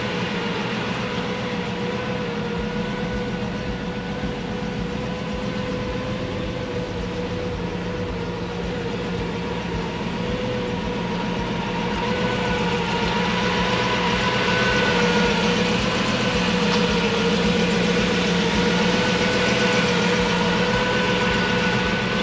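Car engine running at a steady idle, with a steady whine over it; it gets a little louder about midway.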